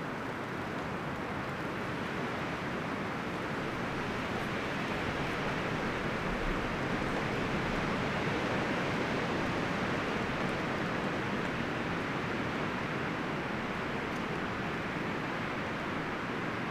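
Wind rustling through the leaves and branches of forest trees: a steady, even rush that swells a little midway and eases again.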